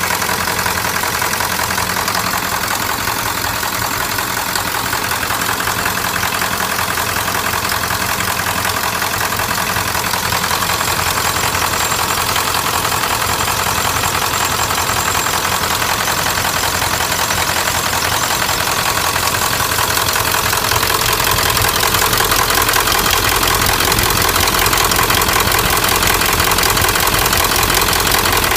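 1997 Ford F-350's 7.3-litre Power Stroke turbo diesel V8 idling with a steady knocking clatter, which the owner puts down to bad injectors. It gets a little louder about two-thirds of the way in.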